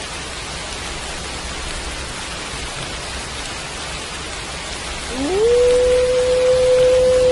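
Steady rain falling throughout. About five seconds in, a wolf starts a howl that rises in pitch and then holds one long, level note.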